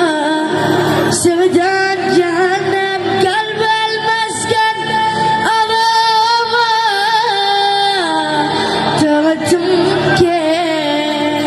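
A singer's voice with long held, ornamented notes in a Middle Eastern style, over instrumental accompaniment.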